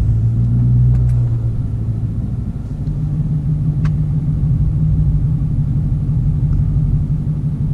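2017 Dodge Challenger Hellcat's supercharged 6.2-litre V8 running steadily while driving, its note stepping up a little in pitch about three seconds in.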